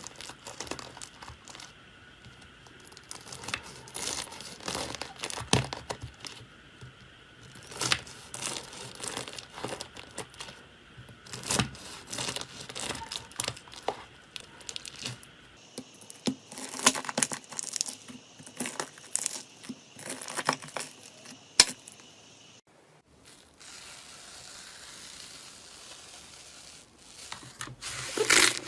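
Irregular crackling and crunching in clusters, a soft material such as slime or foam being squeezed and pressed by hand. The crackling stops for a few seconds after about two-thirds of the way, leaving a faint hiss, then starts again near the end.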